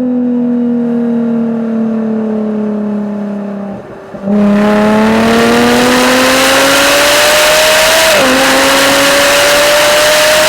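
Exhaust of a 2013 Jaguar F-Type V6 S's supercharged 3.0-litre V6, heard on board at speed. The revs fall for about four seconds as the car slows. Then it accelerates hard, the pitch climbing steadily, with a quick upshift about eight seconds in before it climbs again.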